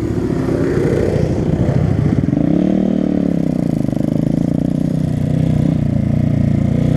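Honda Grom's small single-cylinder engine running at low speed while riding, its pitch rising and falling gently with light throttle.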